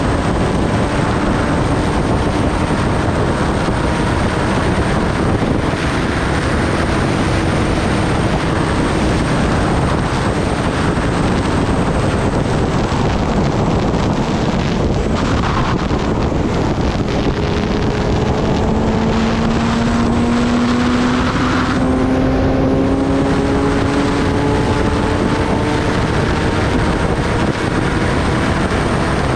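Kawasaki Ninja ZX-10R inline-four engine running while riding, its pitch climbing slowly at times, under heavy wind rush.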